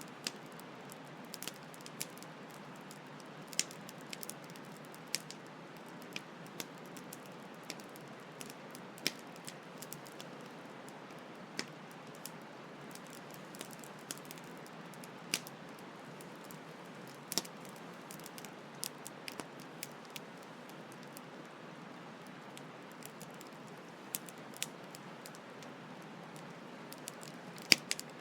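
Campfire crackling, with sharp irregular pops and snaps, over the steady hiss of a flowing stream; the loudest pop comes near the end.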